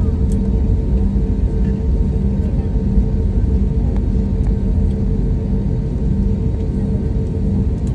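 Airliner cabin noise: a steady low rumble with a constant hum and a few faint clicks.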